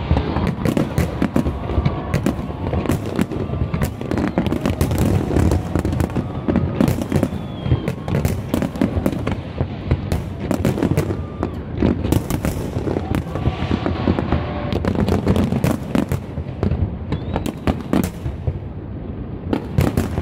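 Large fireworks display: shell bursts banging and crackling in quick succession, many overlapping, with no pause.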